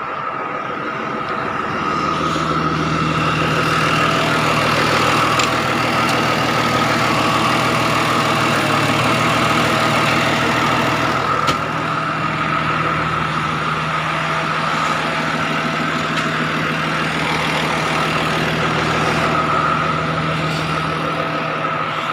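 An MTZ-1221 tractor's six-cylinder diesel engine idling steadily, its note firming up about two seconds in.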